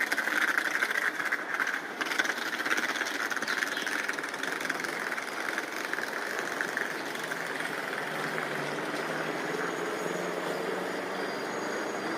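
An engine or heavy vehicle running steadily, with a faint low hum coming up in the second half.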